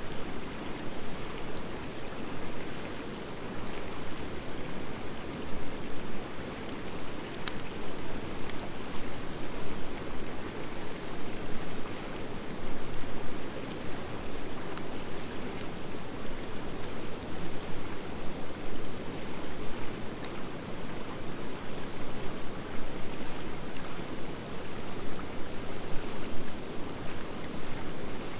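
Wood fire of driftwood and dry hardwood logs burning steadily: a constant rush of flame with frequent small crackles and pops scattered throughout.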